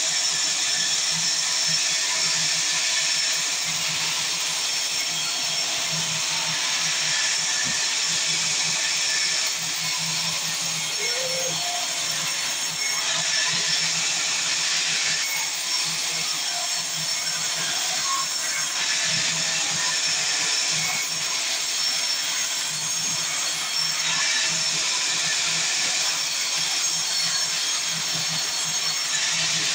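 Sawmill saw running and cutting through mahogany. The sawing is a continuous high hiss with a steady low hum underneath.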